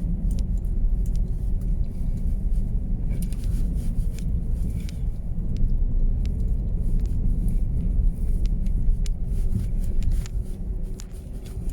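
Steady low rumble of a car driving on a snow-covered road, with scattered light clicks over it.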